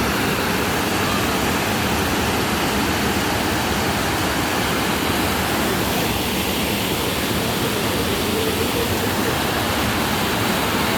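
Rushing water from a creek or cascade: a steady, loud hiss that stays the same throughout.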